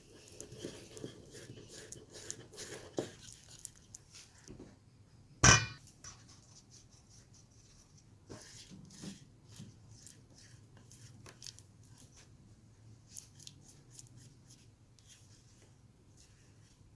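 Kitchen handling sounds: scattered small clicks, taps and scrapes of utensils and containers, with one sharp, loud knock about five and a half seconds in.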